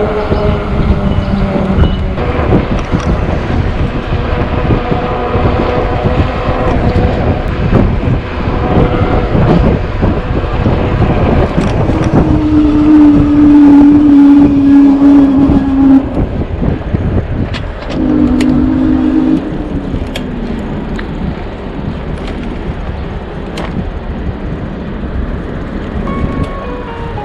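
Wind buffeting the microphone and rumble from riding an electric bike. About halfway through, a loud steady hum holds for about four seconds, and a shorter one comes a couple of seconds later.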